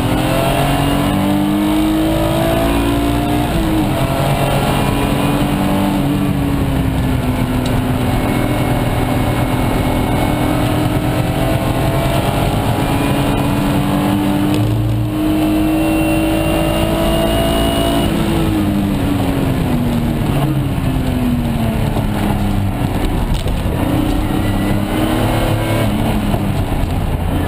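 BMW S50B30 3.0-litre straight-six, swapped into an E46 328, heard from inside the cabin while lapping a race track under hard throttle. The engine note drops about four seconds in, climbs slowly through a long pull in the middle, then falls and rises several times near the end with shifts and corners.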